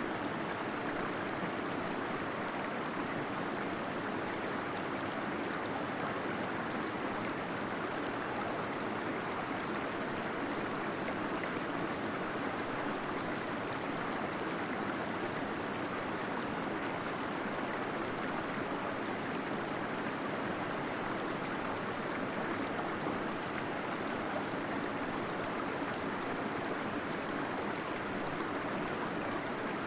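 Waterfall in a cave: water falling and gurgling in a steady, unbroken rush.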